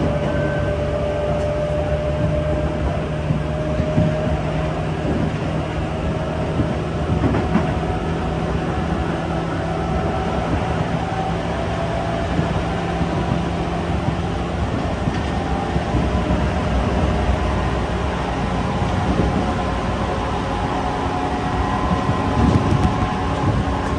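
Running noise of a Tobu Urban Park Line local electric train heard from inside the passenger car: a steady rumble of wheels on rail with a steady hum, and a few knocks near the end.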